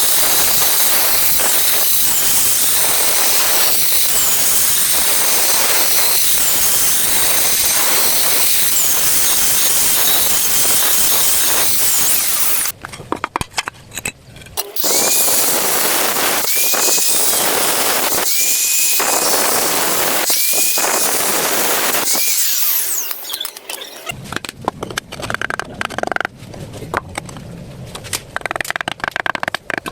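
Electric power tool running under load, cutting or grinding, in two long stretches with a brief pause between. A high whine comes and goes about every two seconds in the second stretch. After that come scattered knocks and scrapes.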